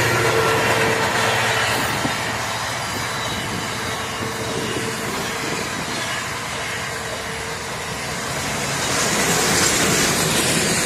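Container freight train's wagons rolling past, a steady rumble of wheels on rail. A faint steady tone fades out about two-thirds of the way through, and the rushing noise swells louder near the end.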